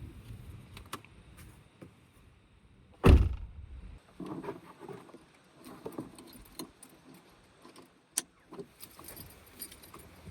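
Scattered clicks and rattles of objects being handled, with one loud, heavy thud about three seconds in.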